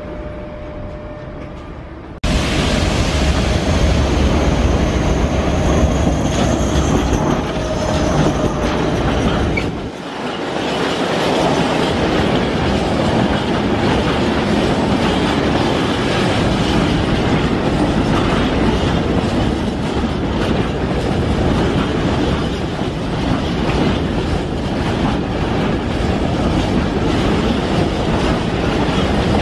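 Freight train of high-sided open wagons rolling past close by, its wheels running on the rails in a steady, loud noise. It begins quieter, on a passing container train, and jumps abruptly louder about two seconds in.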